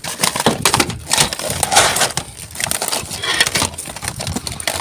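Rummaging through items in a rubbish bin: packaging crinkling and objects clattering and knocking together in irregular bursts.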